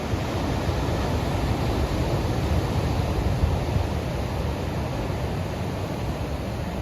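Gusty wind rumbling on the microphone over the steady wash of ocean surf.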